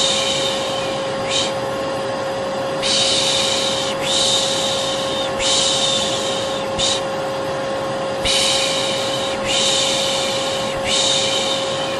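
Vacuum cleaner motor running with a steady whining drone, while a person shushes over it ('shh, shh'), a sleep-soothing white noise for babies. The shushes come as hisses about a second long in runs of two or three, some followed by a short 'sh'.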